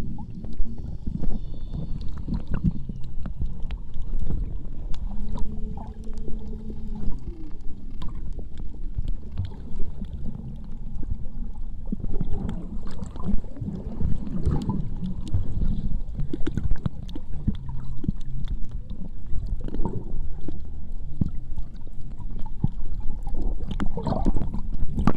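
Underwater sound picked up by a submerged camera in the sea: a steady, muffled low rumble of water with scattered clicks and crackles, and a brief low hum about five to seven seconds in.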